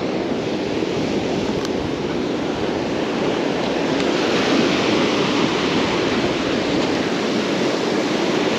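Surf breaking and washing on the beach, a steady rushing noise, with some wind on the microphone.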